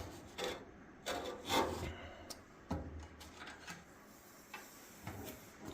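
Dryer panel parts rubbing and scraping as they are handled and slid into place: a few separate scrapes in the first three seconds, then a few light clicks.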